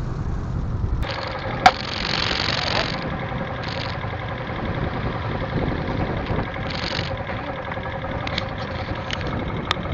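Motorcycle engine running steadily, with a sharp click about a second and a half in.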